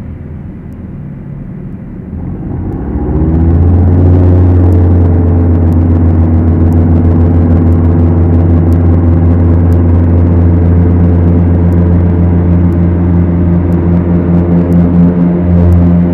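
The Beechcraft Duchess's twin four-cylinder piston engines have their power brought up over a second or so, about two seconds in. They then run loud and steady at high power with an even drone.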